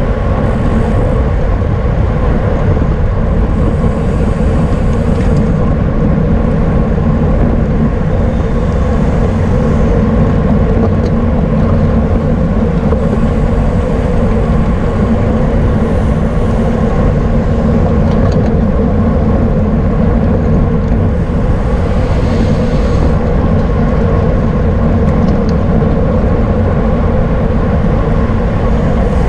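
Loud, steady wind and road rush on a bicycle-mounted camera's microphone while riding at race speed, heaviest in the low end, with brief higher hisses now and then.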